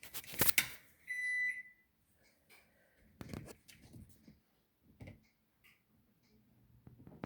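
A sharp clatter, then a single electronic beep lasting about a second from a household appliance, followed by a few soft knocks.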